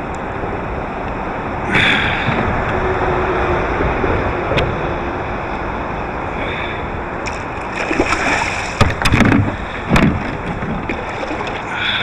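Wind and water lapping against a fishing kayak, with a cluster of splashes and knocks about 8 to 10 seconds in during the fight with a hooked red drum.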